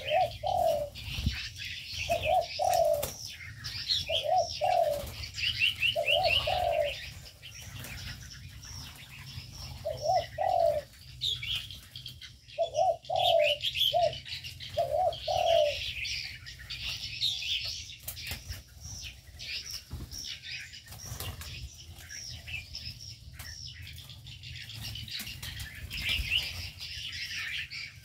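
Doves cooing in short two-note phrases, repeated every second or two and stopping about halfway through. Many small cage birds chirp and twitter at a higher pitch throughout.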